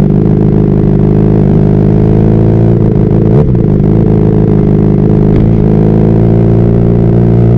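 Honda CBR600RR's inline-four engine running at a steady speed while riding, with a brief dip and recovery in pitch about three and a half seconds in.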